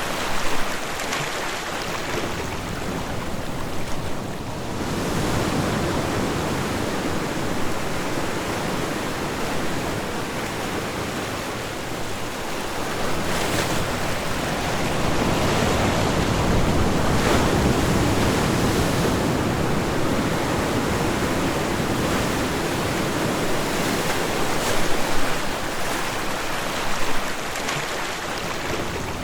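Ocean waves breaking and washing on a shore, a continuous surf that swells and eases every few seconds.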